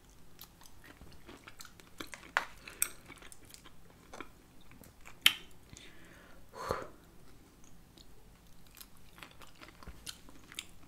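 A person chewing cocktail shrimp, with wet mouth clicks and smacks scattered through, the loudest about five seconds in.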